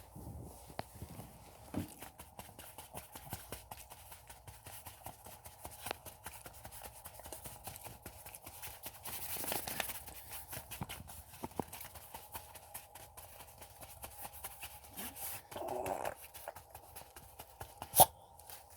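A dog making irregular small clicks and taps, with a short low burp-like sound near the end and one sharp knock just before the end.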